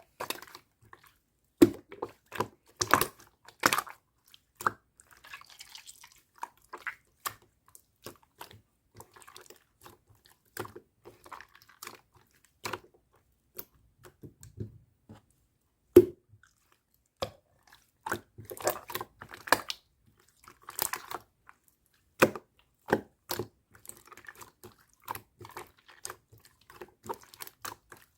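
Pearl slime being squished, stretched and pressed by hand, giving irregular sticky clicks, pops and crackles, a few of them sharp and loud.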